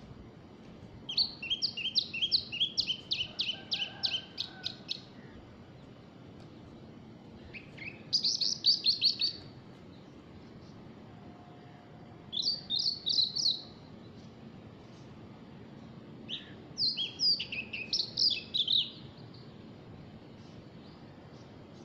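A small songbird singing in four phrases of quick, repeated high chirping notes, each phrase lasting about one to four seconds, with pauses of a few seconds between them.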